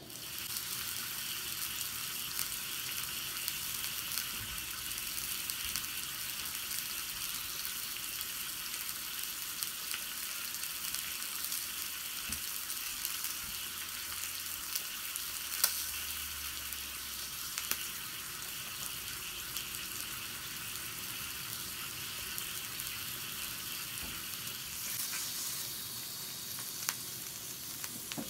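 Meat and vegetables sizzling in a small cast iron skillet over a gas-canister camp stove. The steady sizzle starts abruptly at the beginning, with a few light clicks of utensils against the pan.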